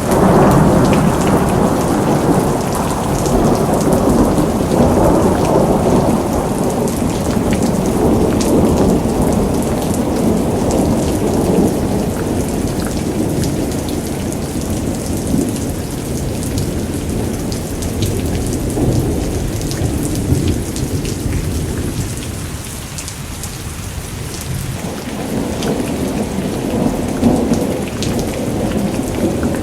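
Thunder rumbling over steady rain during a thunderstorm. The rumble eases off about three-quarters of the way through, then builds again near the end.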